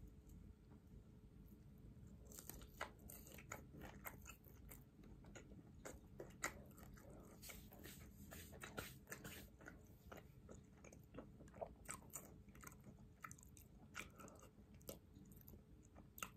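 A person biting into and chewing a crispy-coated, plant-based KFC Beyond fried chicken nugget: faint, irregular crunches that start about two seconds in.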